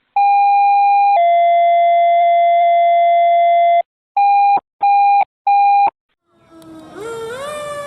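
Fire dispatch alert tones: a long steady tone that steps down to a lower tone, then three short beeps. About six seconds in, a fire truck siren starts winding up, rising in pitch.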